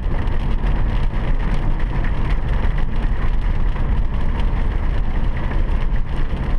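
Steady road noise heard inside a car moving in the rain: tyres running on wet pavement with a deep, even rumble and hiss.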